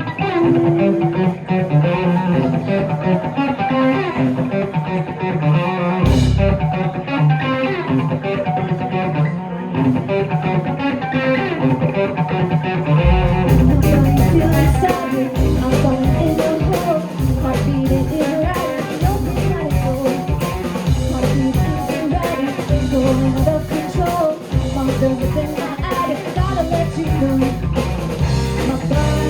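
A live band playing: guitar carries the opening, and from about halfway through bass and drums come in fully under it.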